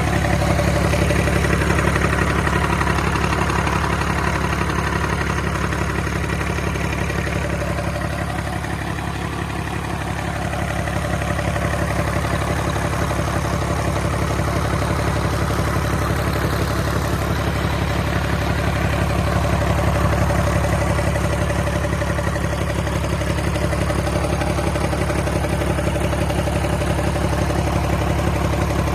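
Rebuilt Cummins QSL9 inline-six diesel engine running steadily under test, easing off slightly about nine seconds in and then coming back up.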